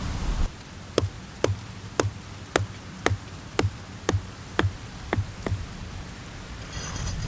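A run of about ten sharp, evenly spaced ticks, roughly two a second, each with a low thud, fading toward the end.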